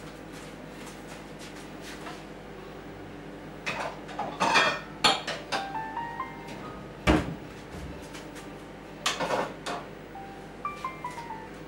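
Plates and dishes clattering and knocking together, with several sharp knocks, after a few seconds of a steady hum. Short stepped electronic tones sound twice among the clatter.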